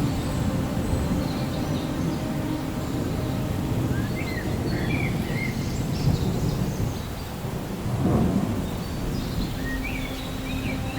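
Thunderstorm: low rolling thunder rumbling over steady rain, swelling about eight seconds in. A few short high chirps come midway and again near the end.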